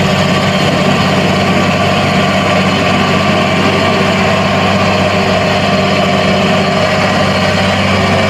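Steady truck-engine idling sound, loud and unchanging.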